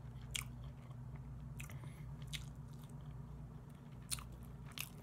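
Close-up chewing of soft, jelly-textured barbecued chicken, with about five short, sharp wet mouth clicks. A steady low hum runs underneath.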